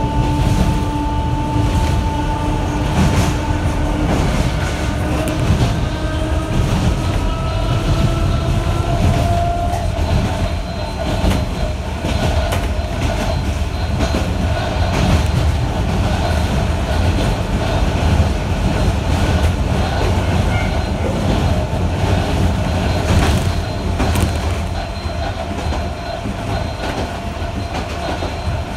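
Sangi Railway 270 series narrow-gauge electric train running, heard from inside the carriage: a steady rumble with irregular clicks from the wheels on the rail. A whine rises gently for several seconds and then holds steady.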